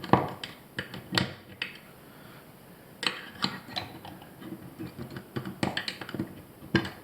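A metal pick clicking and scraping against the inside of a cartridge faucet body, prying out the rubber seat gasket and spring, in scattered sharp taps.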